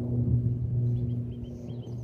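A steady low hum, with a bird giving a quick run of short chirps after about a second.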